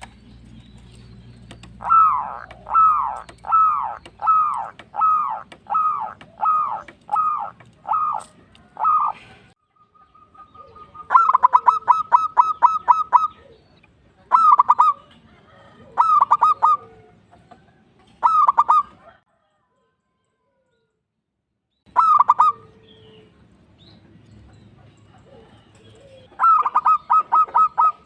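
Zebra dove (perkutut) singing its cooing song. First comes a run of about nine falling coos, roughly one a second. Then come quick stuttering bursts of clipped notes in short groups, broken by a couple of seconds of dead silence about two-thirds through.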